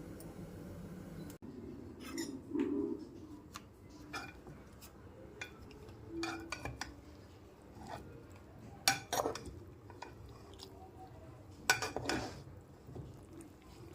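Metal kitchen utensils clinking and knocking against pots and dishes in scattered strokes, with a few sharper clusters of knocks around the middle and near the end.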